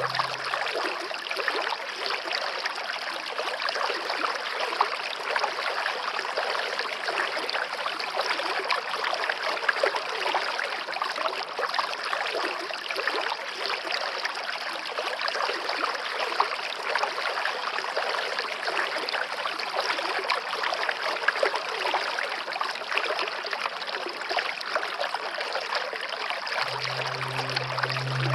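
Steady babbling of a flowing stream, an even rush of running water with fine splashing detail. A low, held music tone comes back in near the end.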